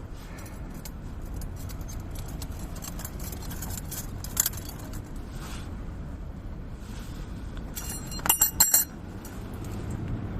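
Metal objects clinking: four or five quick, ringing clinks in under a second, a little past eight seconds in, over a steady low rumble with scattered small clicks and one sharper click about four seconds in.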